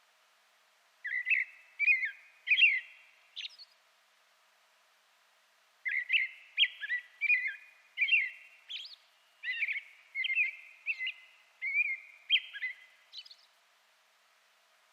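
A bird singing in two runs of quick, slurred chirping notes: a short run about a second in, and a longer one from about six seconds until near the end.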